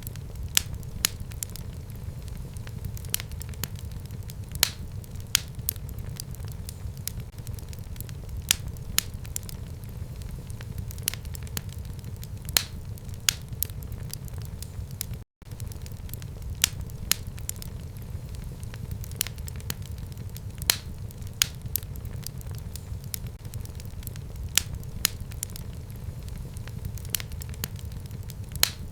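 Fire burning in a home fireplace: a steady low rumble of flames with frequent irregular sharp crackles and pops. There is a split-second dropout to silence about halfway through.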